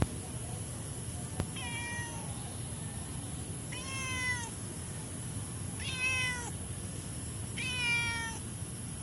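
Domestic cat meowing four times, each meow under a second and slightly falling in pitch, spaced about two seconds apart. A sharp click at the very start.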